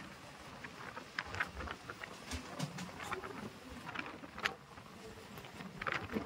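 Passenger train coach running: a steady rumble with irregular sharp clicks and rattles.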